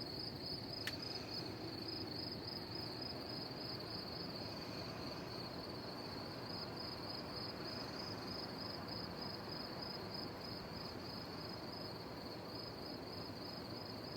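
Crickets chirping: a steady, evenly pulsing high trill that carries on without a break over a faint hiss.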